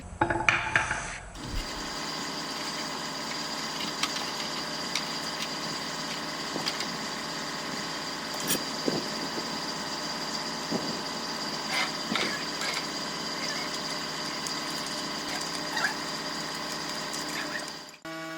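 A machine running steadily with a constant high whine, after a short burst of louder, irregular noise at the start. It cuts off suddenly near the end.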